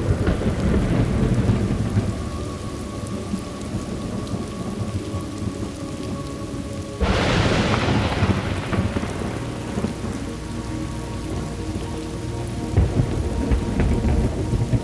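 Thunderstorm: steady rain with thunder rumbling at the start, then a sudden sharp thunderclap about seven seconds in whose rumble trails off over a few seconds. More low thunder rolls near the end.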